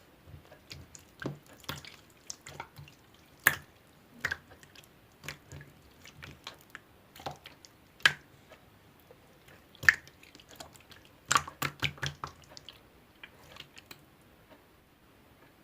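Green slime being squeezed and poked by hand, making irregular wet clicks and pops, a few of them sharp and loud, thinning out near the end.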